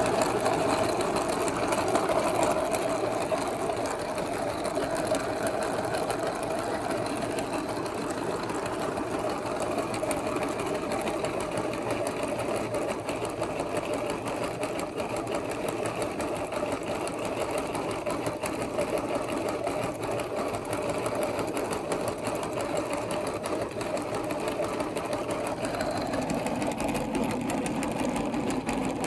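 Electric meat grinder running steadily under load, its motor and auger turning without a break; the tone shifts slightly near the end.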